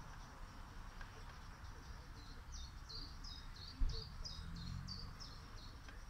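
A bird singing a run of about a dozen short, high notes repeated about three a second, each dropping slightly in pitch. There is a single low thump about four seconds in.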